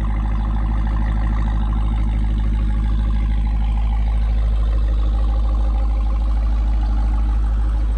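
Supercharged 6.2-litre Hemi V8 of a Jeep Grand Cherokee Trackhawk idling steadily after a cold start, through a Borla ATAK catback exhaust, with a deep rumble; loud.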